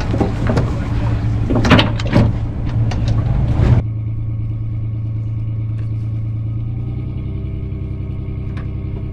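A fishing boat's engine runs with a steady drone. For the first four seconds wind noise and a few loud knocks are heard over it; that noise cuts off suddenly, leaving the engine hum alone.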